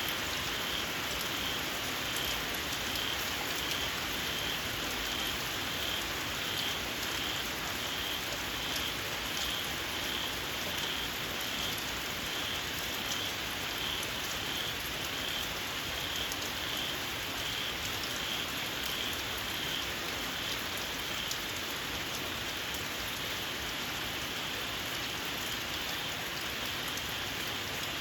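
Steady rain falling, with individual drops tapping, and a high, shrill call from small frogs pulsing regularly about one and a half times a second.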